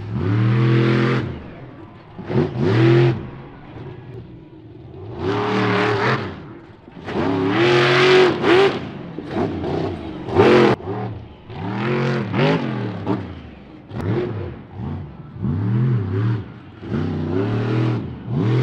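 Monster truck engine revving hard in repeated bursts, about nine throttle blasts, each rising then falling in pitch. The sound cuts off abruptly at the end.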